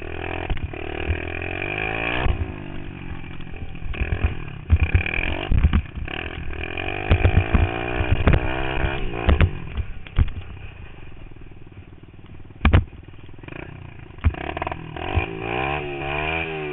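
Pit bike engine revving up and dropping back again and again as it is ridden around a dirt track, heard from the rider's helmet. Sharp knocks and clatter break in throughout, one loud knock about two-thirds of the way through.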